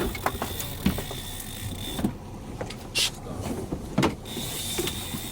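Boat engine running steadily, with a thin high whine for the first couple of seconds and a few sharp knocks or clicks, about one a second.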